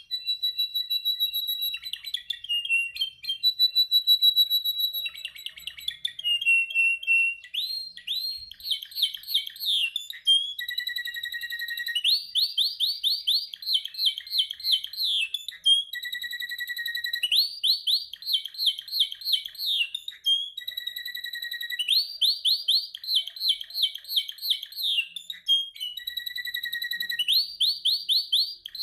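Canary singing a long, continuous song: clear held whistle notes alternating with fast rolling trills of rapidly repeated notes, the phrases repeating over and over.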